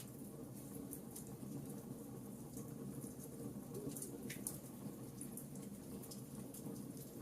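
Wood fire burning in a fireplace: a steady low rumble with frequent small, sharp crackles and pops at irregular intervals.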